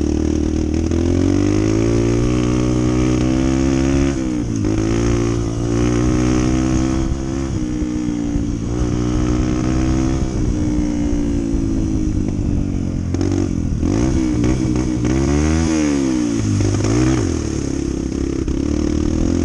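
Honda CT125's single-cylinder four-stroke engine under way, its pitch climbing as it accelerates and dropping sharply at gear changes several times, then rising and falling quickly near the end.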